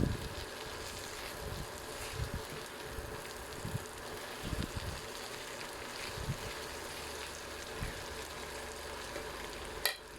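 Steady hiss with soft, irregular low knocks of a spoon or spatula stirring the peanut and butter mixture in a pan. A sharp click near the end, after which the hiss drops.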